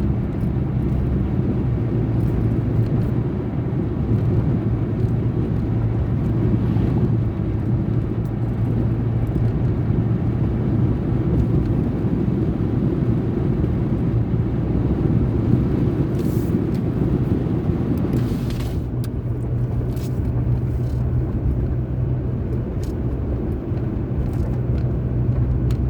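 Car interior road noise: the engine hums and the tyres rumble steadily on the road, with a small change in the engine note about two-thirds of the way through.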